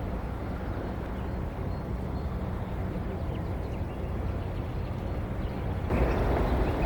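A boat engine runs steadily at low speed with a low hum, over outdoor waterside background noise, getting louder near the end.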